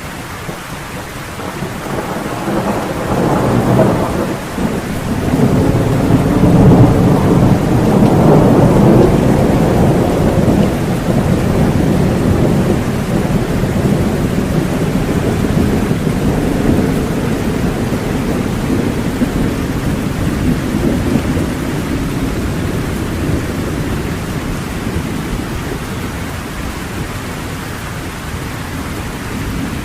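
Thunderstorm: steady rain with a long roll of thunder that builds a couple of seconds in, is loudest around a quarter of the way through, and slowly dies away.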